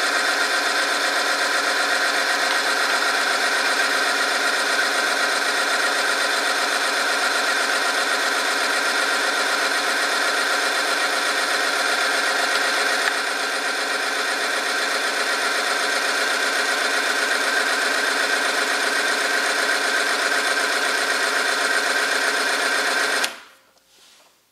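Oil-film friction test machine's electric motor running steadily with a high, many-toned whine, dropping a little in level about halfway through, then stopping abruptly near the end.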